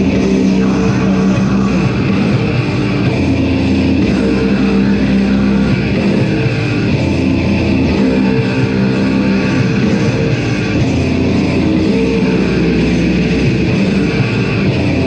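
A heavy metal band playing live: loud distorted electric guitars and bass in a slow riff, the low notes changing about every two seconds, with no vocals.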